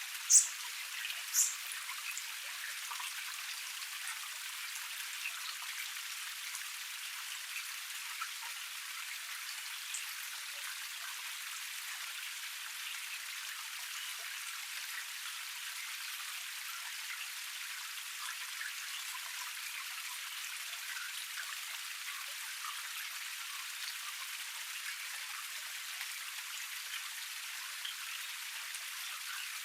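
Small forest cascade splashing and pattering steadily, a thin hiss with no low rumble. Two short high-pitched chirps stand out near the start.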